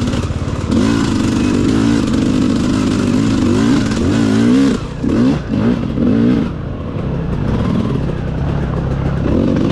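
Dirt bike engine revving up and down under throttle, with a brief drop and a couple of quick blips about halfway through, then running at a lower, steadier pitch.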